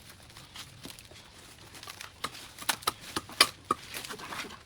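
Dry vines and brush crackling and snapping as they are pulled and broken: irregular sharp snaps, few at first, then a quick cluster, the loudest about three and a half seconds in.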